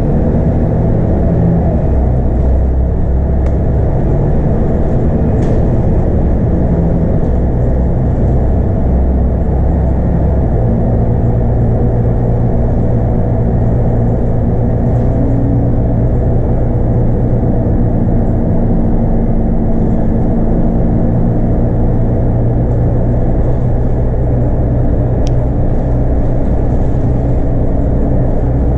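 Scania DC9 five-cylinder diesel engine of a Scania K230UB bus running steadily under way, heard from inside the bus along with road noise. The engine note changes about ten seconds in.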